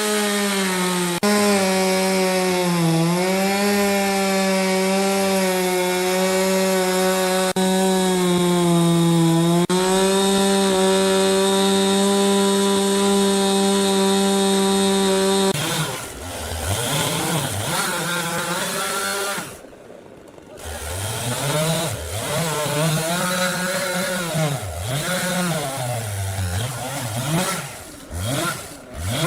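Chainsaw running at high revs cutting wood, its engine note sagging briefly a few times under load. About halfway through, the steady note breaks off and the engine revs up and down unevenly, dropping nearly to idle for a moment.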